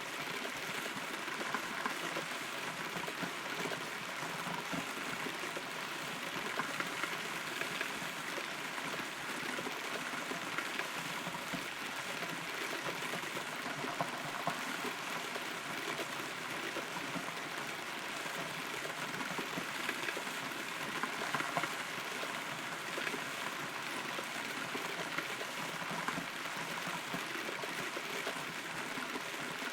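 Steady rain pattering on and around a hollow rotten tree, heard from inside the trunk, with scattered individual drops ticking through the patter.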